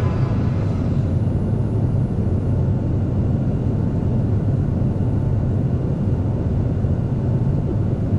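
Steady low rumble and air hiss of the cabin of a Boeing 757-200 airliner, heard from a passenger seat.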